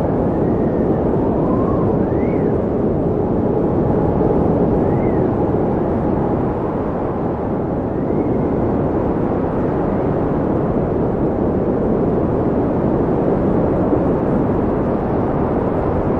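Wind blowing in a steady, low-pitched rush, with a few faint whistling tones that rise and fall in the first half.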